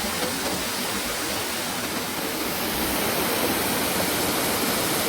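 A waterfall: the steady rush of falling water, getting a little louder about halfway through.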